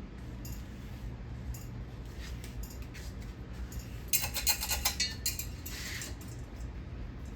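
Hunter 42-inch low profile ceiling fan running on high speed with a steady low motor hum. A quick run of light metallic clinks comes about four seconds in.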